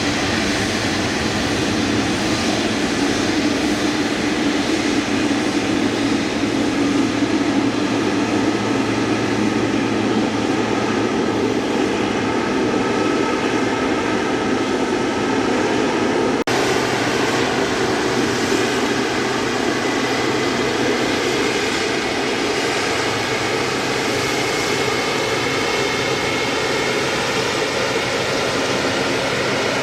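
Jet airliner engines running with a steady, dense drone and faint whining tones above it. The sound breaks sharply for an instant about halfway through, then carries on much the same.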